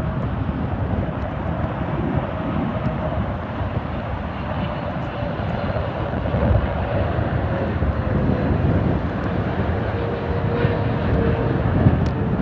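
Twin GE90 turbofan engines of a Boeing 777-300ER arriving, a steady jet rush with a faint whine that slowly falls in pitch.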